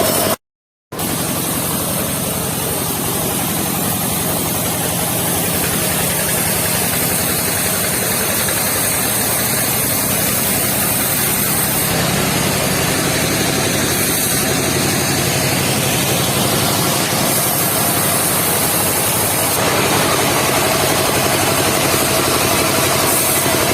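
Engine of a mobile circular sawmill running steadily with an even drone. The sound cuts out completely for about half a second near the start.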